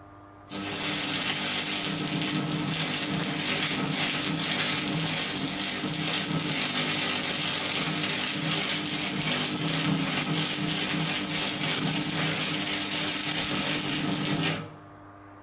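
Electric welding arc crackling steadily for about fourteen seconds, striking suddenly about half a second in and cutting off sharply near the end.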